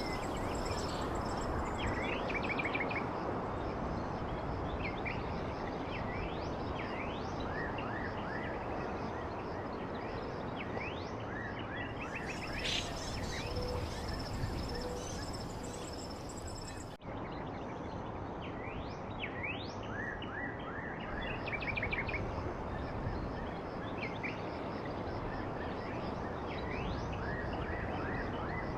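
Several songbirds chirping and calling in short quick notes and rapid trills, over a steady rushing background noise. The sound cuts out for an instant about two-thirds of the way through, an edit join in the recording.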